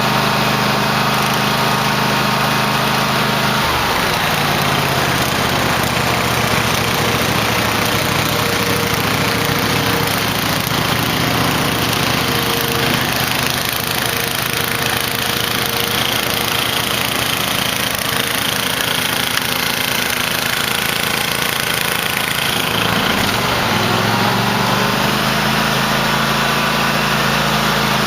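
Cub Cadet LT1050 lawn tractor engine running steadily while plowing snow; its pitch drops about four seconds in and climbs back near the end.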